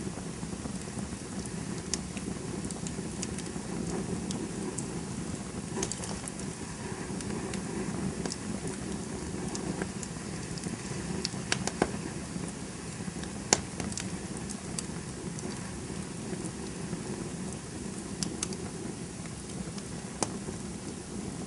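Campfire burning with a steady low rush of flame and scattered sharp crackles and pops. The loudest pop comes a little past halfway.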